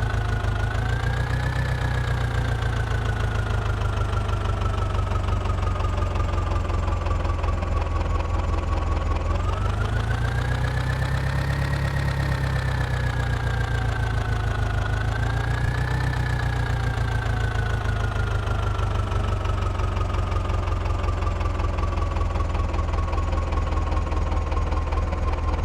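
Mahindra tractor's diesel engine running steadily. Its speed slowly sags, picks up about ten seconds in and again around fifteen seconds, then slowly sags once more.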